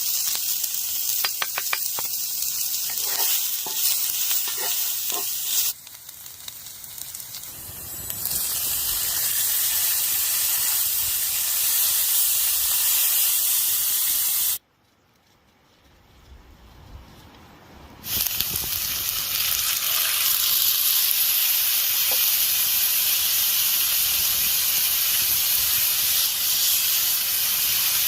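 A steady high hiss, broken into several stretches by abrupt cuts. There are light clicks and taps in the first few seconds and a much quieter stretch just past the middle.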